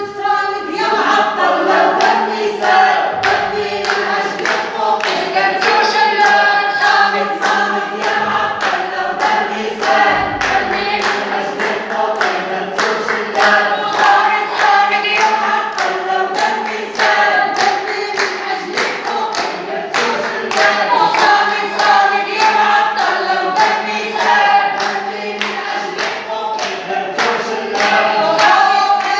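A crowd of protesters chanting slogans in unison to steady rhythmic hand-clapping.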